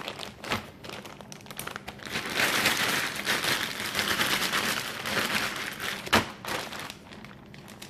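Plastic freezer bag crinkling as it is shaken and handled with oiled, salted potato slices inside, a dense rustle full of small crackles, loudest through the middle, with a sharp knock about six seconds in.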